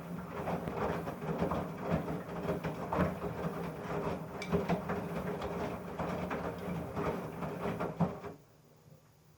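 Samsung front-loading washing machine drum turning under its motor, a steady hum with irregular knocking and rattling, which stops abruptly about eight seconds in. The machine is faulty: it stalled before its final spin and, once restarted, the drum shakes and jerks instead of running smoothly.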